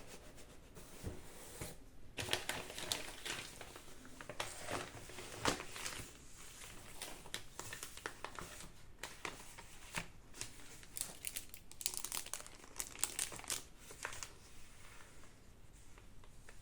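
Packaging crinkling and rustling as a parcel of art supplies is unwrapped by hand, in uneven bursts of handling that go quieter near the end.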